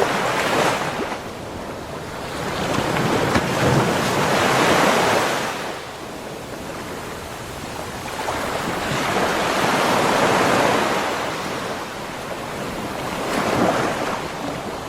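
Ocean waves breaking and washing up a beach shore, the surf swelling and ebbing in slow surges about every four to five seconds, with some wind noise on the microphone.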